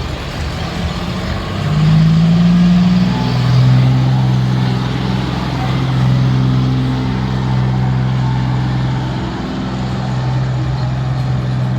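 Diesel tractor engine running, revving up about two seconds in and then holding a steady, loaded drone.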